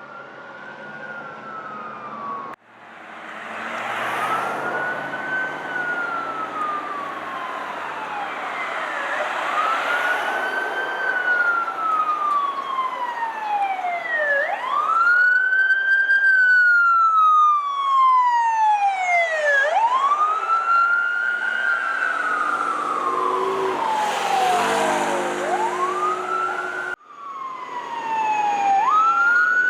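Emergency vehicle siren on wail: a tone that sweeps up quickly and then falls slowly, repeating about every five seconds, over engine and road noise. A low steady tone joins for a few seconds near the end, and the sound breaks off abruptly twice.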